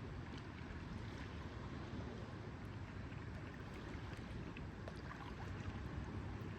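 Lake water lapping gently, with a steady low wash and small scattered splashes and trickles.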